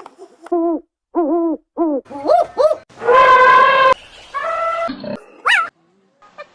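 Recorded animal calls played from an animal-sounds video: several short calls that rise and fall in pitch, then a longer held call about three seconds in, followed by a few more short calls.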